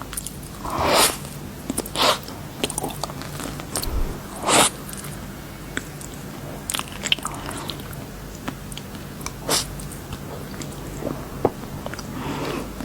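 Candy being bitten and chewed close to the microphone: light crackles and clicks with a few louder crunches, about a second in, at two seconds, around the middle and near the end.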